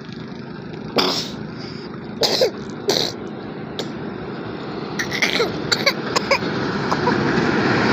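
Heavy truck engine running as a steady rumble that grows slowly louder, broken by several short sharp noises.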